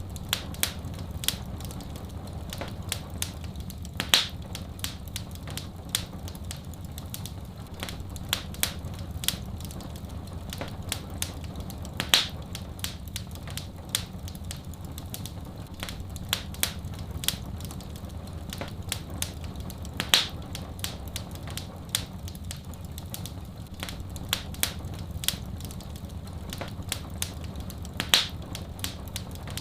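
Wood fire crackling with many sharp pops, over a steady low rumbling hiss of soft rain. The loudest pops come about every eight seconds, four times, in a repeating pattern.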